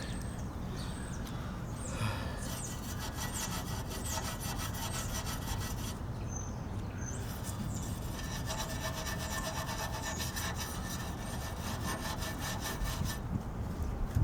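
Rapid back-and-forth scrubbing on the frame of a 1965 Honda Cub, in two spells of quick, even strokes with a short pause between them.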